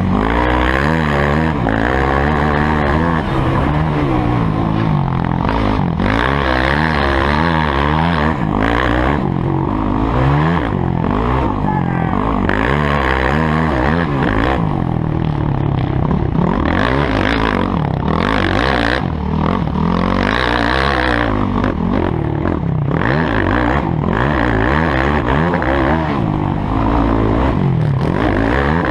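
Motocross bikes riding the track, several engines revving up and falling back over and over as they accelerate and shift.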